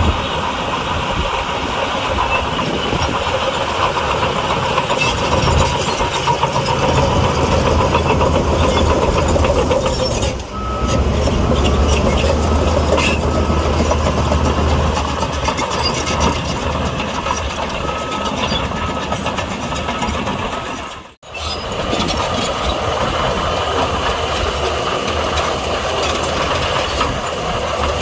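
Heavy earthmoving machinery's diesel engines running steadily. For several seconds in the middle, a short high beep repeats about once a second, like a reversing alarm. The sound drops out briefly twice.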